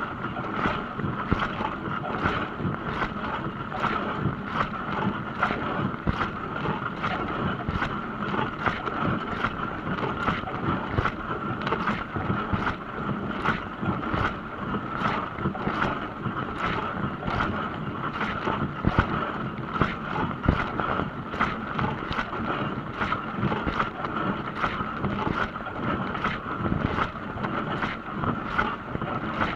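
Dishwasher running, water spraying and splashing inside it: a steady rushing wash broken by many uneven splashes.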